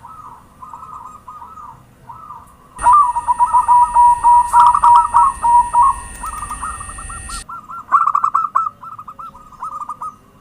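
Zebra dove (perkutut) cooing, a run of short, quick, repeated call phrases. From about three seconds in to about seven, a louder, closer bout plays over a steady high whine and hiss.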